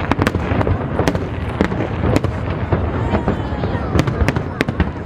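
Aerial fireworks shells bursting over a harbour in a dense, irregular string of sharp bangs, several a second, over a continuous low rumble.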